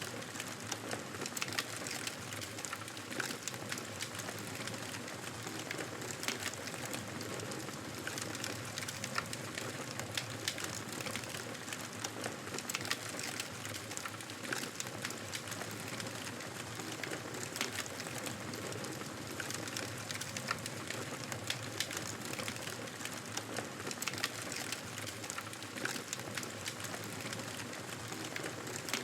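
Wood fire burning in a fireplace, a steady rushing hiss of flames with frequent sharp crackles and pops from the logs.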